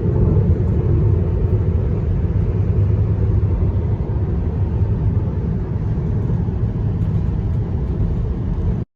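Road and wind noise of a car driving at speed: a loud, steady low rumble with hiss over it, with no engine note. It cuts off abruptly near the end.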